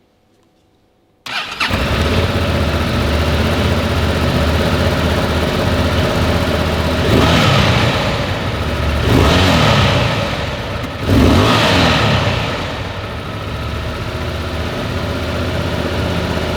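Honda XL750 Transalp's 755 cc parallel-twin engine started up about a second in, then idling, blipped three times with quick rises and falls in revs in the middle before settling back to idle.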